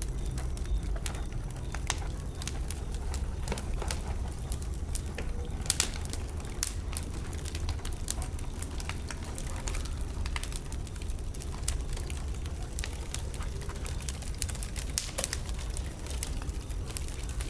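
Wood bonfire burning, with frequent sharp crackles and pops of burning logs over a steady low rumble; a louder double pop about six seconds in.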